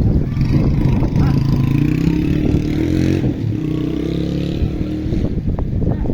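A motor vehicle's engine running, its pitch shifting slightly, over wind buffeting the microphone.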